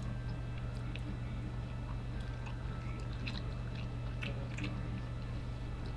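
A person chewing food close to the microphone, with small wet mouth clicks that come most often in the middle. A steady low hum runs underneath.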